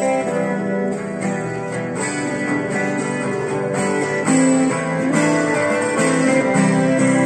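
Acoustic guitar strumming chords in a steady rhythm, with no voice: the instrumental introduction before the first verse.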